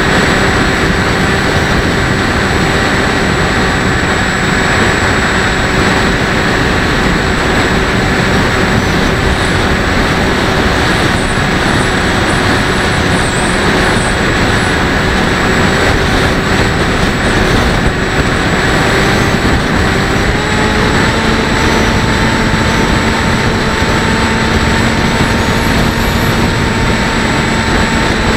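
Bixler 1.1's brushless electric motor and pusher propeller whining steadily in flight, heard from the onboard camera under heavy wind rush. The whine steps up in pitch about twenty seconds in as the throttle is opened up.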